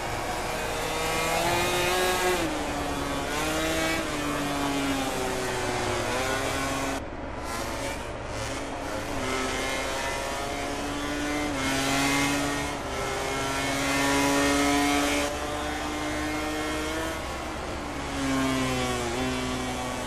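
MotoGP race motorcycles' engines at full race pace, their pitch rising under acceleration and dropping back at gear changes and braking, over and over.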